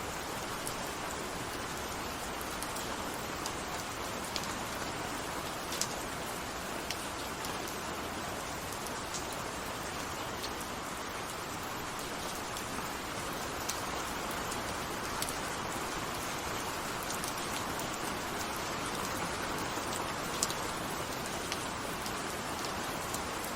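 Steady rainfall: an even hiss of rain with scattered sharp drops plinking close by.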